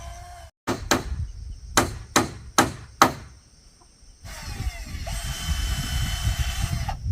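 A blade chopping wood: six sharp strikes over about two and a half seconds, followed after a short lull by a steady rushing noise.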